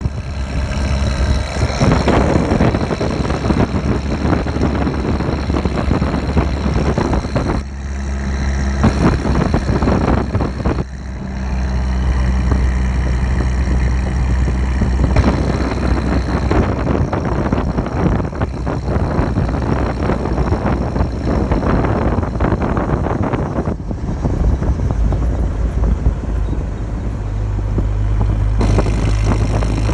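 A Rover vehicle's engine running with a steady low hum over a broad noise, its pitch shifting several times.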